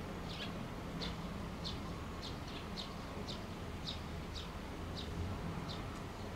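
A small bird calling over and over with short, high, falling chirps, about two a second, over a steady low hum.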